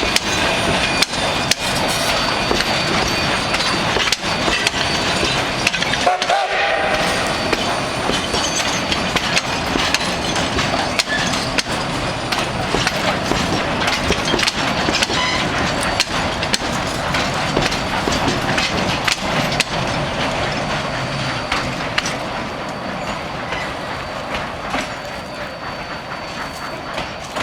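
Steam-hauled passenger train rolling along the track: a steady noise of the moving cars with frequent clicks of the wheels over the rails, easing off slightly near the end.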